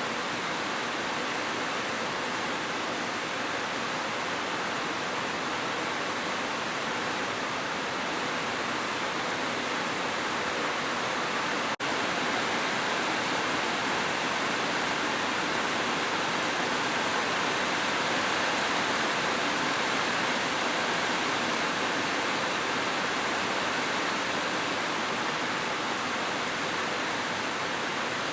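Heavy rain falling steadily, an even unbroken hiss with no single drops standing out. The sound drops out for an instant about twelve seconds in.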